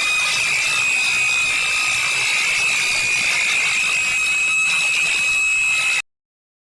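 A single long, high-pitched screech with a raspy, buzzy edge, held at one pitch and cut off suddenly about six seconds in.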